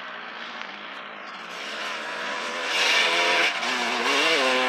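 Motocross dirt bike engine revving on the track, growing louder about halfway through, its pitch rising and falling with the throttle.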